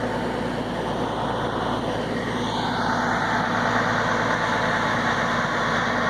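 Heavy-haul truck's diesel engine running with a steady drone.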